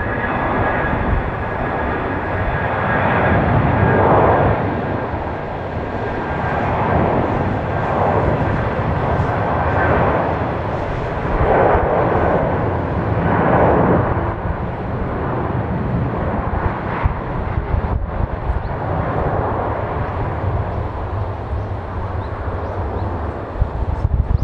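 Jet airliner's engines at takeoff thrust: a loud rumbling roar that swells and ebbs every second or two, with a faint high whine early on, settling to a lower, steadier rumble in the second half.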